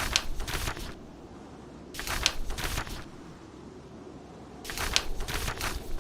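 Paper pages of a book being turned three times, each a brief papery rustle, the last one longer, over a steady low rumble of storm wind.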